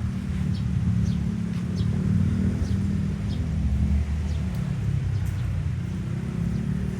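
Steady low outdoor rumble with small birds chirping, short falling chirps repeating every half second or so.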